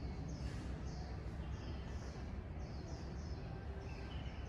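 A small bird chirping steadily: short, high chirps that slide downward, about two or three a second, over a low steady rumble.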